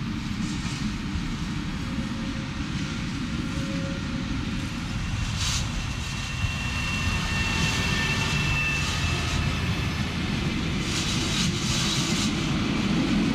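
Electric passenger train running along the track: a steady rumble that grows louder from about halfway, with a thin high whine for a few seconds in the middle.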